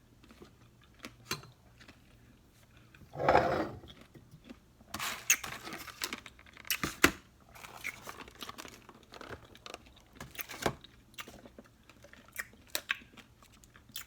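Eating from a bowl of fruit in coconut water: a spoon clicking against the bowl, with chewing of berries and crunchy pomegranate seeds. It comes as scattered short clicks and bursts, with one louder burst about three seconds in.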